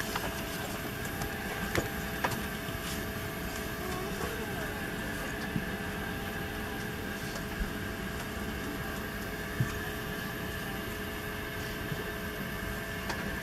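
Boeing 767-300ER cabin noise: a steady rush and drone of the engines and airflow, with faint steady tones in it and a few brief clicks.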